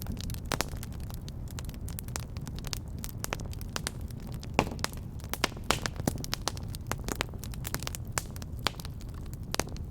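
Wood fire crackling in a fireplace, with frequent irregular sharp pops and snaps over a steady low rumble. The loudest pop comes about four and a half seconds in.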